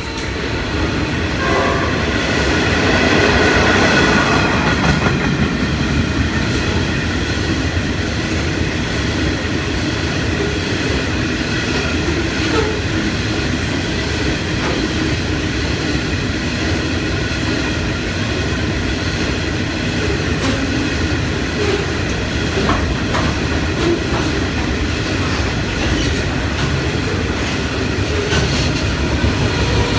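Long freight train of hopper wagons rolling past at speed: a steady rumble with wheels clattering over the rail joints.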